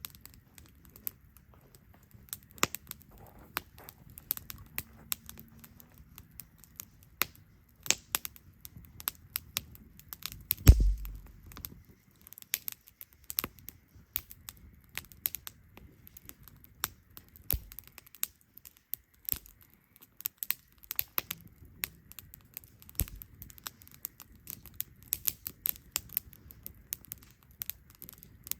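Wood campfire crackling, with irregular sharp pops and snaps from the burning firewood and one louder, dull thump about eleven seconds in.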